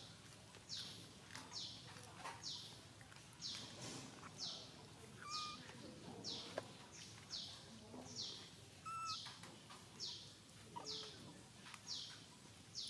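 A bird calling over and over outdoors: short, high chirps that slide downward in pitch, about one or two a second, with low background ambience.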